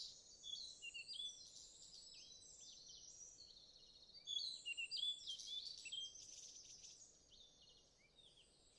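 Faint birdsong: several birds chirping with quick, high, overlapping chirps, busiest about four to six seconds in and thinning out near the end.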